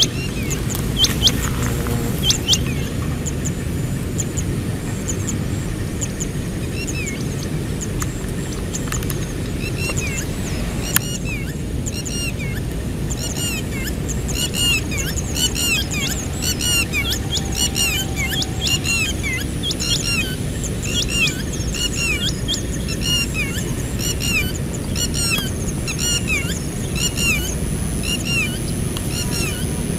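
Small birds chirping, many short repeated calls that grow busier from about halfway through, over a steady low rumble.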